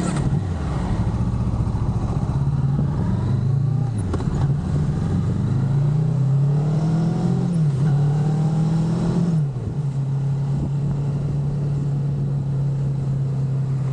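Honda CB500 parallel-twin motorcycle engine pulling away and accelerating through the gears. Its pitch climbs and then drops at each upshift, and about two-thirds of the way through it settles into a steady cruise.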